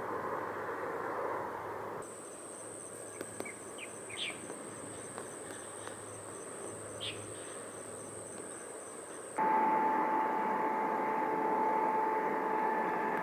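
Distant jet airliner noise, then a few seconds of quieter outdoor ambience with a steady high insect drone and a few short bird chirps. About nine seconds in, airliner engine noise returns abruptly, with a steady whine over the rumble.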